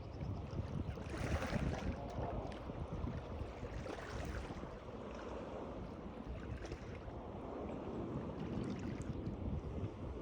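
Moving water splashing and lapping irregularly over a continuous low rumble.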